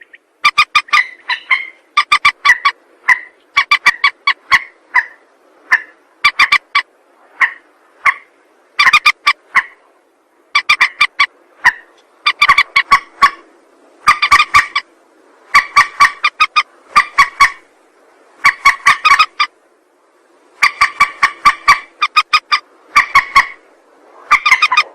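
Lure call of a mandar, a rail or gallinule: loud, harsh clusters of rapid clucking notes, repeated about every second or so, then cutting off abruptly at the end.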